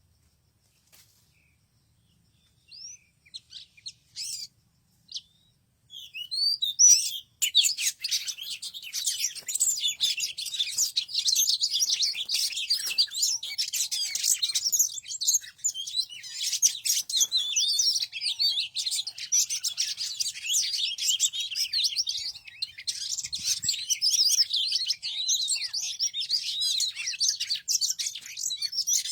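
Small birds chirping: a few single high calls, then from about six seconds in a dense, continuous chorus of rapid chirps from many birds.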